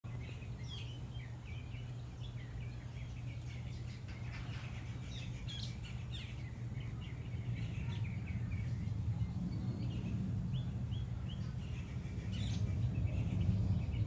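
Small birds chirping: many short, high chirps in quick succession, over a steady low hum that grows a little louder in the second half.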